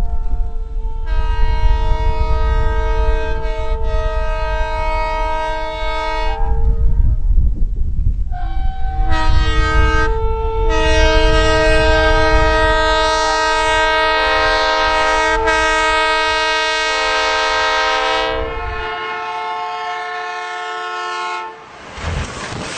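A train horn sounds two long blasts, each a chord of several steady tones; the second lasts about ten seconds. Under them runs the heavy rumble of the moving train, which falls away near the end.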